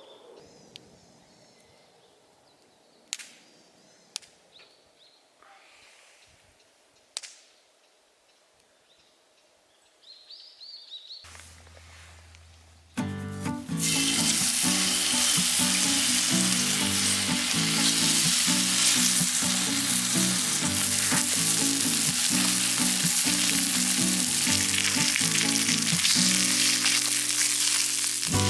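Meat sizzling loudly in a frying pan, starting suddenly about halfway through after a quieter stretch with a few sharp clicks.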